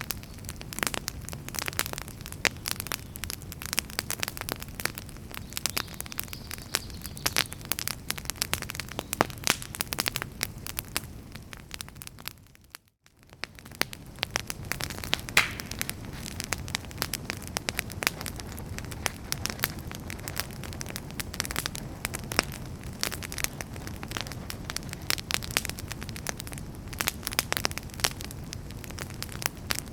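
Wood fire in a fireplace crackling, with many sharp pops and snaps over a steady low rumble of burning. About halfway through, the sound briefly fades almost to silence, then comes back.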